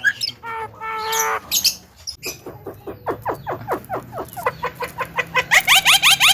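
Javan myna calling: a held, harsh note about half a second in, then a long run of quick, rising chirps that gets louder and faster near the end.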